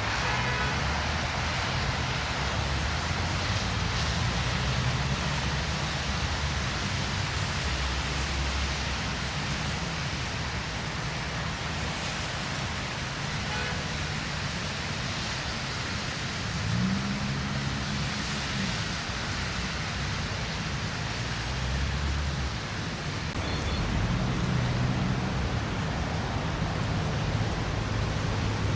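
City street traffic: a steady hiss with the low hum of passing vehicle engines rising and fading, one passing a little louder about two-thirds of the way through.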